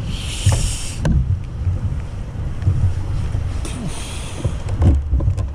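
Wind buffeting the microphone on a kayak at sea, a steady low rumble, with two short splashes of water and a few knocks against the hull.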